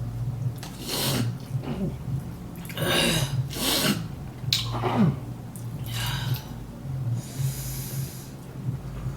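A person breathing heavily through the nose, with about six loud sniffs or snorting breaths a second or so apart and a couple of short grunts, over a steady low hum.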